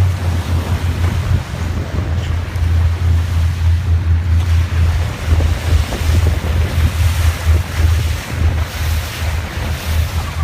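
Wind buffeting the microphone on a boat at sea, over a steady low rumble and the wash of water.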